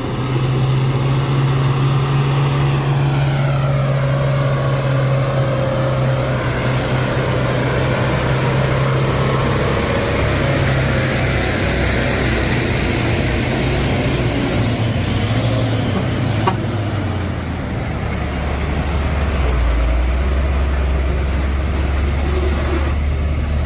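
Heavy truck diesel engines straining under load as a 4x4 truck tows a Hino 6x2 truck up a steep climb. A steady low engine drone that drops to a lower pitch about 17 seconds in.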